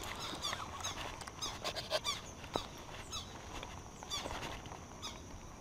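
A bird calling in quick runs of short, high chirps, several times over, with a few faint clicks between.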